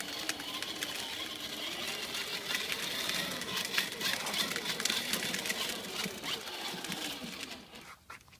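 Repeated croaky 'ek ek' vocal sounds with a low pitch that wavers up and down, mixed with small clicks, stopping about seven and a half seconds in.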